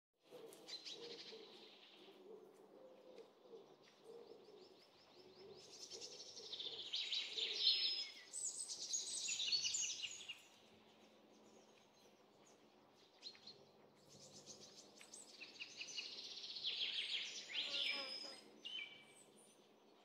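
Songbirds singing, several overlapping songs of chirps and rapid trills, growing louder in the middle and again later on.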